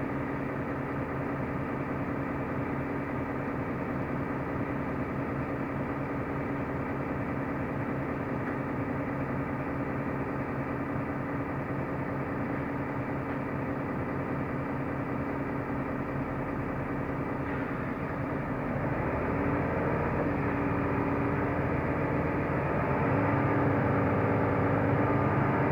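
Mercedes-Benz O345 Conecto LF city bus driving, heard from inside the passenger cabin: a steady drone of the diesel engine and road noise. It grows louder about three-quarters of the way through and again near the end as the engine pulls harder.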